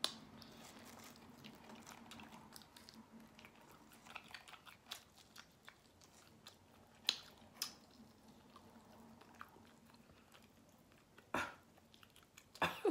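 A person biting meat off a barbecue rib and chewing it up close: soft, wet chewing and mouth clicks, with a few louder, sharper clicks in the second half.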